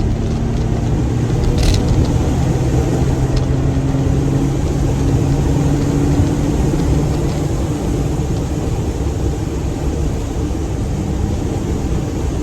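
Brabus smart fortwo's small turbocharged three-cylinder engine running while driving, over steady road noise; the engine note climbs a little midway and eases off about two-thirds of the way through. A brief click about two seconds in.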